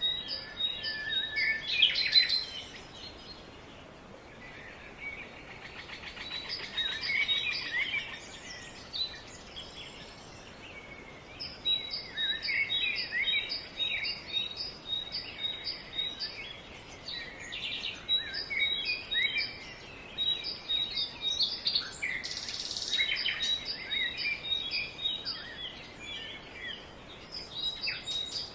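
Birds chirping and singing, with a repeated high note about twice a second over scattered quicker chirps.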